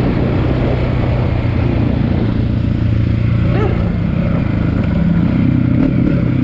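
Dirt bike engine running steadily at a moderate speed, its pitch rising and falling slightly.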